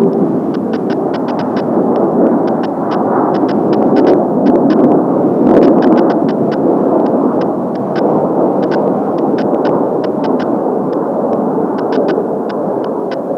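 Kawasaki T-4 jet trainers flying in a four-ship formation, their engines making a steady, loud roar that swells and eases slowly. Faint irregular ticks run through it.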